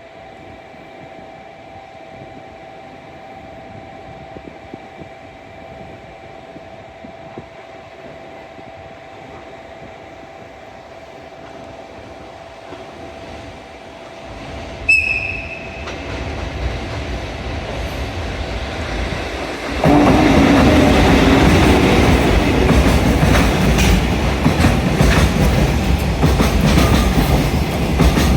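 JR Freight EF81 electric locomotive hauling a freight train, approaching with a short, sharp high-pitched whistle blast about halfway through. The locomotive and wagons then pass close by with loud rumbling and clickety-clack of wheels over rail joints.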